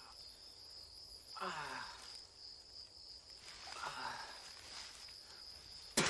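Crickets chirping steadily in a high, even drone. Two short falling vocal sounds come about 1.5 and 4 seconds in, and a sharp click comes near the end.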